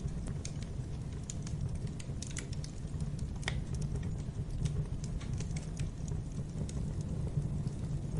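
Wood fire crackling in a fireplace: irregular sharp snaps and pops over a steady low rumble of the flames, with one louder pop about three and a half seconds in.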